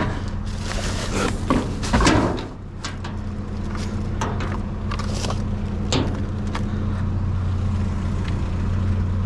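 A vehicle engine idling steadily, with scattered clinks and knocks of brass and copper plumbing scrap being handled, loudest about two seconds in.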